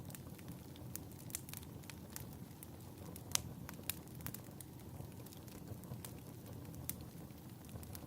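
Crackling fireplace: a steady low hiss with irregular pops and snaps, the sharpest about three seconds in.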